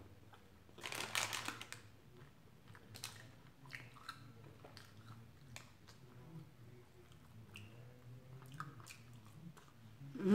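A person biting and chewing food close to the microphone, with one louder crunchy bite about a second in and soft mouth clicks and smacks afterwards.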